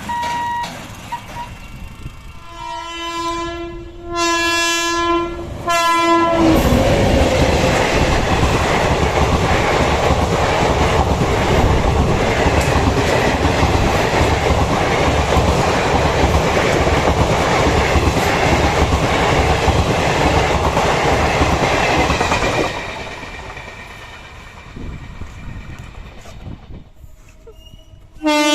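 Train horn sounding two long blasts, then an express train passing close at speed. Its wheels clatter over the rail joints for about sixteen seconds before the noise fades away.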